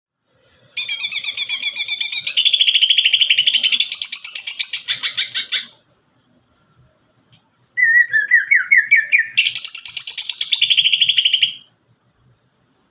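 Sparrow (burung gereja) giving fast, buzzing 'sewing-machine' trills in agitated, fighting-style song: two long rattling bursts of several seconds each with a short pause between, the second starting with a lower rising phrase.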